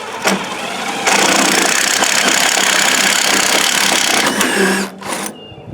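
Power drill with a 7/16-inch wood bit boring holes through the wooden frame, running steadily and getting louder about a second in, then easing off near the end with a short final burst.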